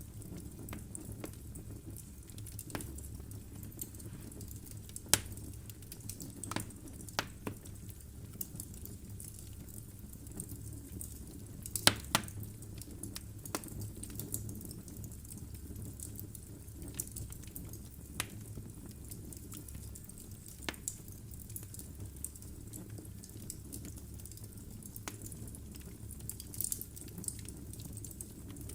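Wood fire burning in a fireplace: a steady low rumble and hiss with sharp, irregular crackles and pops from the burning logs, the loudest about 5 and 12 seconds in.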